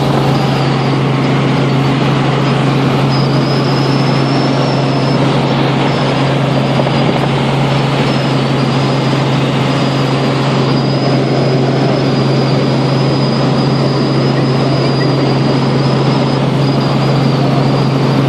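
Helicopter running steadily in flight: a constant low hum over dense engine and rotor noise, with a thin high turbine whine throughout.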